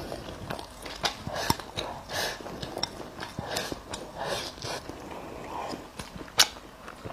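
Close-up eating sounds of a person biting and chewing meat, with irregular sharp clicks and wet mouth noises; the loudest click comes about six seconds in.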